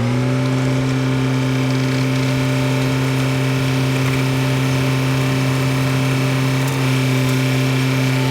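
Demolition excavator's diesel engine held at steady high revs, one even pitch throughout.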